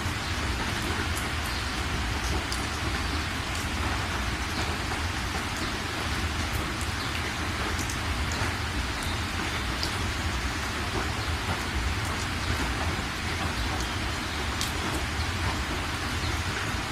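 Steady rain falling: a continuous even hiss with a low rumble beneath it and scattered ticks of single drops.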